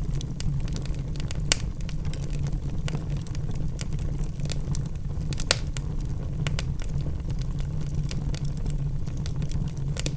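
Wood fire burning in a fireplace: a steady low rumble of flames with scattered sharp crackles and pops, two loud pops standing out about a second and a half in and about five and a half seconds in.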